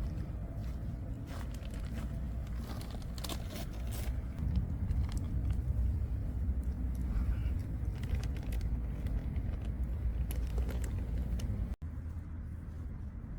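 Campfire crackling, with scattered sharp pops and clicks over a steady low rumble. The sound drops out for an instant near the end.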